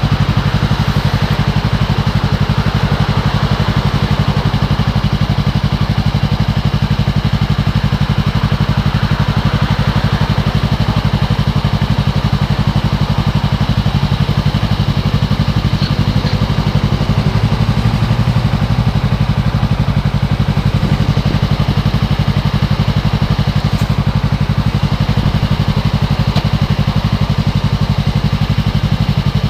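2015 Yamaha R3's 321 cc parallel-twin engine running at a steady, even pitch, heard through a helmet camera.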